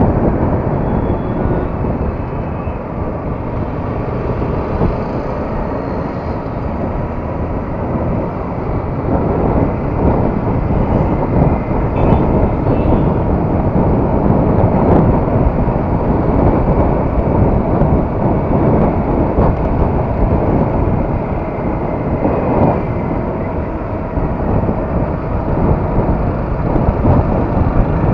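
Yamaha R15 motorcycle on the move: a steady rush of wind and road noise over the bike's running engine, with no breaks.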